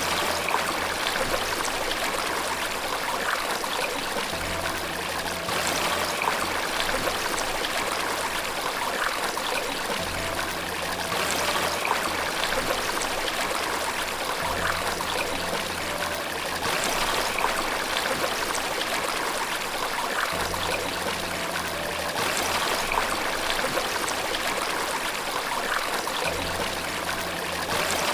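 Steady rushing of flowing water, with soft, low sustained notes of relaxation music under it that change every few seconds.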